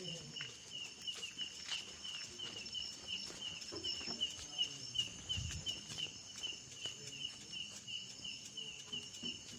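Insect chirping steadily in a high, even rhythm of about three chirps a second, with a faint low thud about five seconds in.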